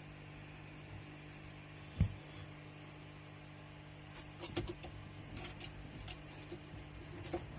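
A steady low hum with a single sharp thump about two seconds in, then a cluster of light clicks and taps about halfway through, and a few more scattered ones near the end.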